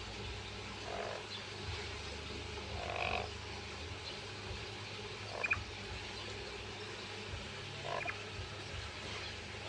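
Pet lory giving four short, soft croaking calls a couple of seconds apart.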